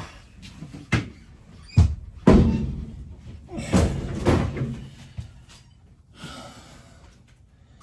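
Wooden interior wall panels of an old RV banging and thudding as they are knocked loose and dropped during demolition. It is a run of irregular bangs, the loudest about two seconds in, with another cluster around four seconds, then dying down to light clatter.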